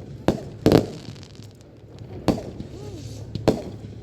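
Aerial fireworks exploding: a quick run of sharp bangs in the first second, then two more single bangs about a second apart.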